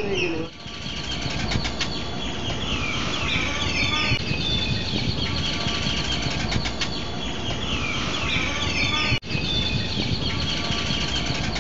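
Birds singing: repeated phrases of high, quickly falling chirping notes over a steady low background noise, with a brief break about nine seconds in.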